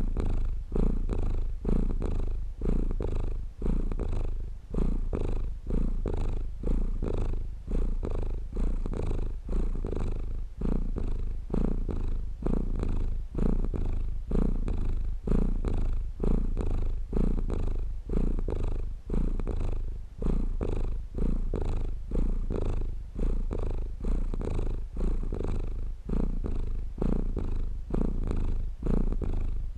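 Domestic cat purring steadily and close up: a low, rough rumble that swells and eases in an even rhythm with each breath in and out.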